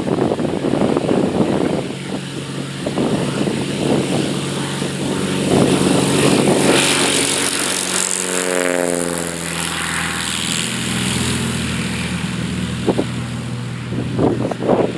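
Cessna 182's piston engine and propeller running steadily. About halfway through, a whine slides down in pitch.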